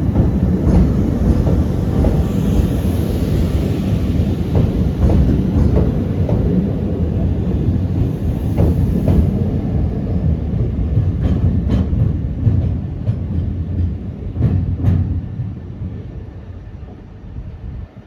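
Southern Class 377 electric multiple unit pulling out of the station: a steady low rumble with repeated clicks of wheels over rail joints, dying away over the last few seconds as it leaves.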